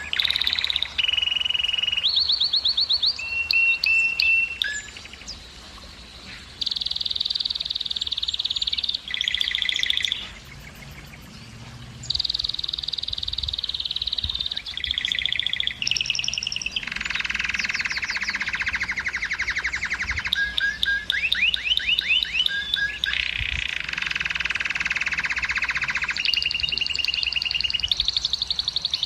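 Male domestic canary singing: a long song of rapid trills and rolling tours, each phrase repeated fast for a second or two before switching to the next, with short pauses between some phrases.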